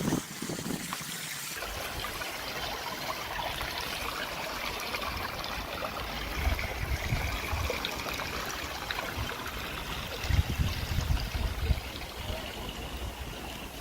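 Water trickling steadily, with gusts of wind buffeting the microphone about halfway through and again near the end.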